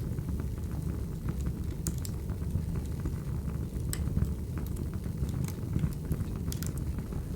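Firewood fire crackling: a steady low rumble of burning with scattered sharp pops every second or two.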